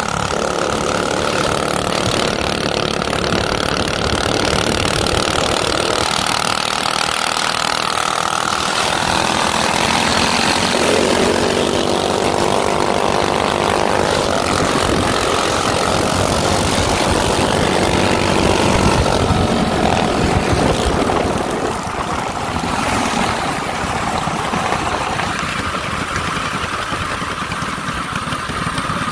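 Small minibike engine running continuously, its note shifting several times and dropping a little in level near the end.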